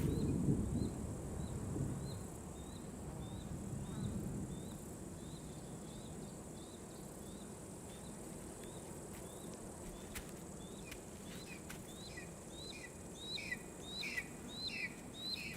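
Outdoor forest ambience: a bird repeats short high rising chirps, more than one a second, getting louder near the end. A low rumble under it fades out in the first few seconds.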